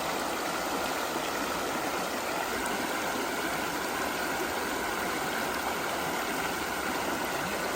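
Creek water running steadily over rocks, an even rushing and gurgling.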